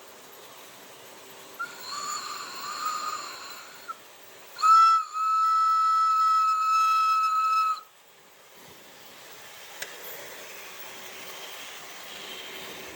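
Steam-locomotive whistle sounds from a Märklin HO model train: a wavering whistle lasting about two seconds, then a short loud toot and a steady whistle held for about three seconds.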